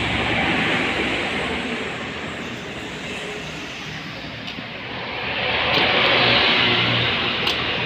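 Steady vehicle noise, easing off in the middle and swelling again about five seconds in, with a few faint clicks.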